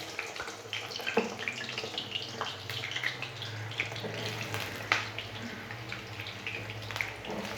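Cut potato pieces frying in hot mustard oil in a pan: a steady sizzle with crackling spatter and a few sharper pops.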